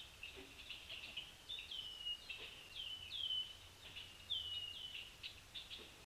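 Birds calling in a quick, uneven series of short notes, each falling in pitch, several overlapping as from more than one bird, over a faint steady low hum.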